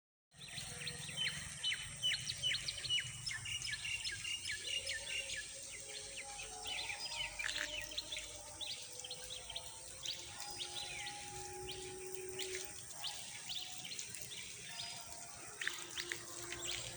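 Evening birdsong: several birds chirping in many quick, short calls, busiest in the first few seconds, over a steady high-pitched insect drone and a low hum.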